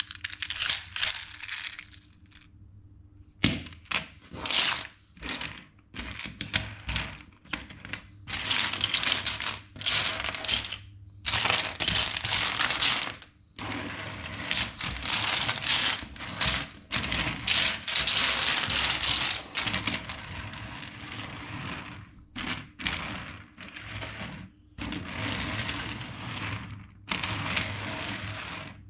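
Plastic LEGO bricks clicking and rattling as they are handled and snapped together, in irregular bursts and longer stretches of dense rattling with short pauses between.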